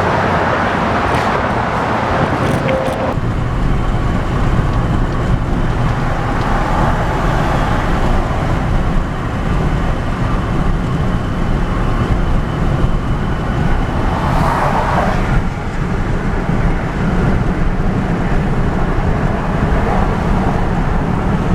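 Steady road noise inside a moving truck's cab: a low engine-and-tyre rumble, with a brief swell of noise about fourteen seconds in.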